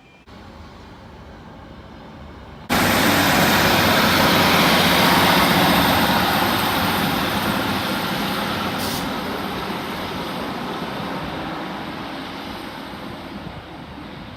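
Diesel train passing through the station, a loud rushing roar with a low engine drone that starts abruptly about three seconds in and slowly fades away.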